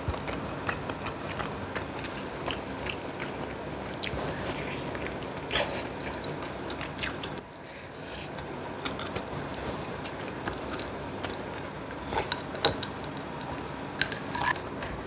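Eating sounds of a person chewing and biting into spicy braised kimchi with pork back ribs, with scattered sharp clicks and smacks, the loudest near the end.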